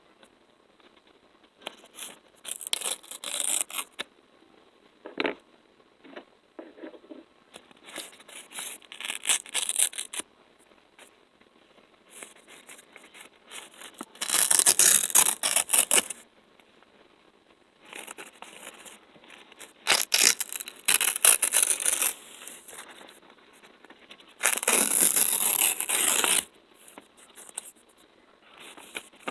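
Sticky, crackling peeling sounds in irregular bursts: a tacky surface being pulled apart close to the microphone. The longest and loudest peels come about halfway through and near the end.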